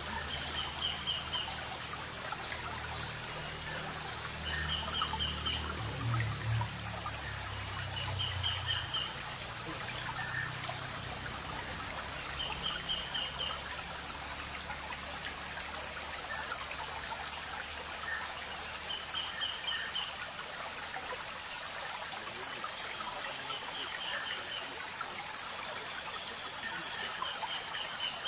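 Small forest stream trickling and babbling, with a bird repeating a short phrase of a few quick notes every few seconds over a thin, high, on-and-off note. A low rumble sits under the water during the first several seconds.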